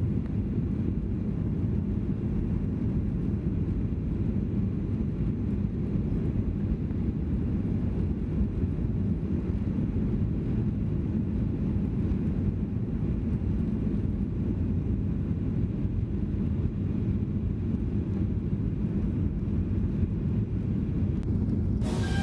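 Steady low drone of a Boeing 737-800 airliner's jet engines and airflow, heard inside the passenger cabin. Music comes in just before the end.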